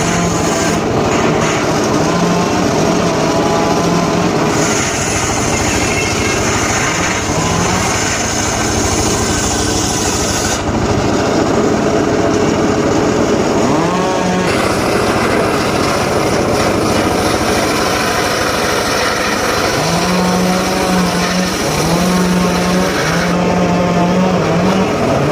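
Small engine of a power saw cutting teak, running steadily, its pitch dipping and picking up again every few seconds.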